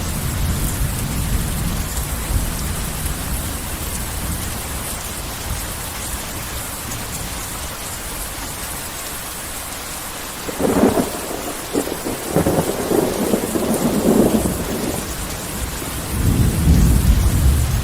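Heavy rain falling with a steady hiss, under a thunderstorm. A low rumble of thunder fades out in the first few seconds. Sharp crackling thunder breaks out about 11 seconds in and runs for several seconds, and a deep rolling rumble builds near the end.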